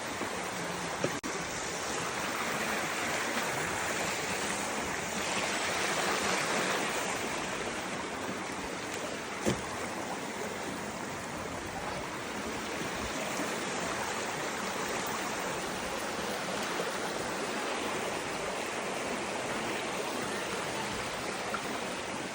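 Steady rush of flowing water, with two brief clicks, one about a second in and a louder one about nine and a half seconds in.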